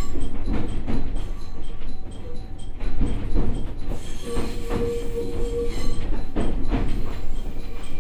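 Cab-car interior of a JR East E127 series electric train running slowly, with a low rumble and wheels knocking irregularly over rail joints. A thin steady squeal from the wheels sounds for about a second and a half near the middle.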